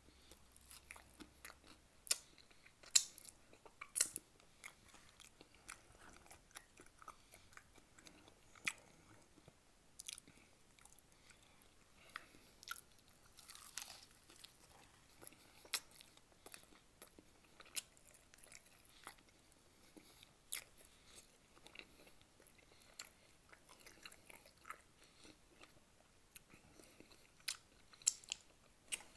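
Close-miked eating of saucy bone-in chicken wings: wet chewing and smacking, broken by many short sharp clicks and crunches as the meat is bitten off the bone.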